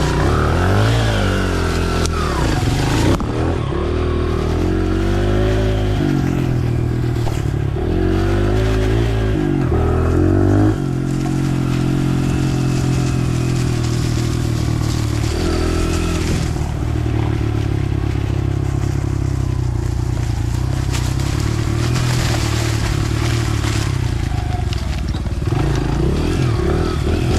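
Dirt bike engine running on a trail ride, revving up and down repeatedly for the first ten seconds or so, then holding a steadier speed.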